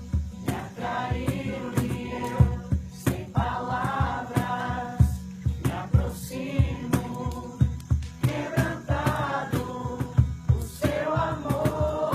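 A group singing a Christian worship song, with a steady low beat under the voices.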